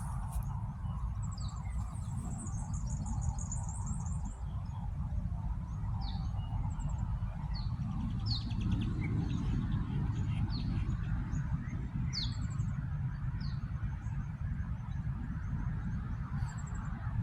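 Small birds chirping: short, high, downward-sweeping chirps every second or so, with a fast high trill about two seconds in, over a steady low rumble.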